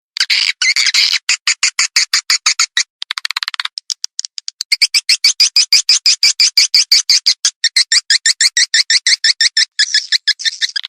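Swiftlet calls from a farming lure recording, played to draw swiftlets into a nesting house. They come as rapid, evenly repeated high chirps, about nine a second, with a buzzier, denser stretch about three seconds in and again near the end.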